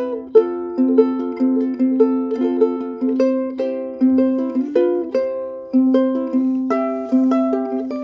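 Pineapple-shaped ukulele with spruce and maple, strung low-G with fluorocarbon strings, played fingerstyle: a plucked melody of ringing, fading notes, a few a second, over a repeated low note.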